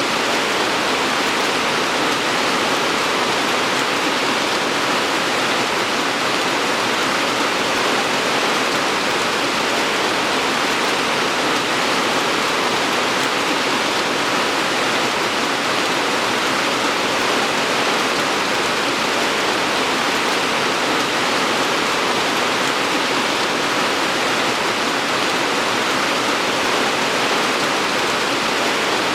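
Steady heavy rain, a dense even hiss of falling water with no single drops standing out.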